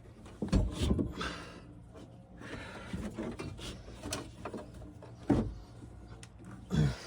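Handling noise inside a truck door: several separate knocks and clunks of parts being moved and fitted, with lighter rattles and clicks between them.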